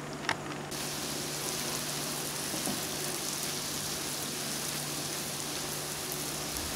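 Ghee sizzling in a kadhai as grated boiled sweet potato fries and is stirred with a spatula. A sharp tap comes about a third of a second in, and the sizzle turns brighter just before a second in.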